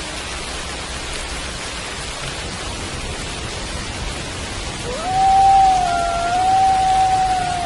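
Steady rain falling. About five seconds in, a wolf lets out one long howl that rises quickly, holds a steady pitch and starts to fall near the end.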